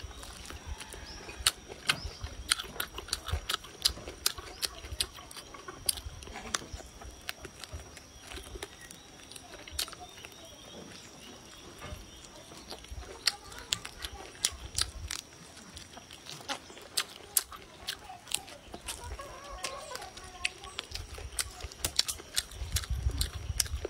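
Close-miked eating sounds: chewing, lip-smacking and sucking on a piece of braised meat on the bone, with many sharp, irregular wet mouth clicks. A faint steady high whine runs underneath.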